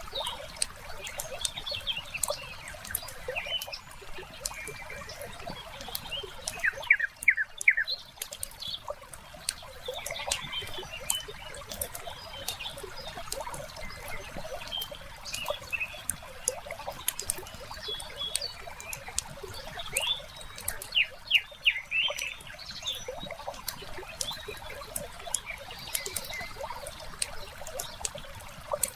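Wood fire crackling with frequent small pops, with birds chirping over it; short runs of quick, louder bird notes come about seven seconds in and again past twenty seconds.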